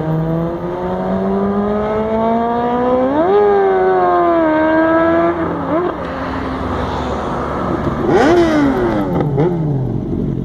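Motorcycle engine revving with a steadily rising pitch, which climbs sharply about three seconds in, holds, then drops away after about five seconds. A second burst of revving comes around eight seconds in, its pitch falling away.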